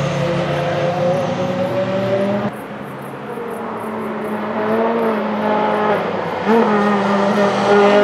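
Car engine running hard on a racetrack. It eases off about two and a half seconds in, then builds again, its pitch climbing with two short wobbles.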